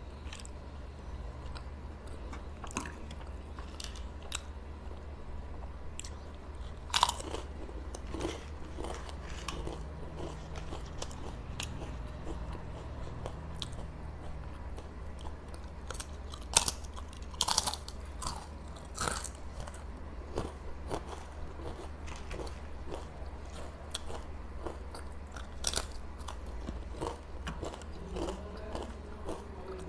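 Mouth sounds of eating: potato chips bitten and crunched in sharp, crisp bites, the loudest about seven seconds in and again just past the middle, with softer chewing between them.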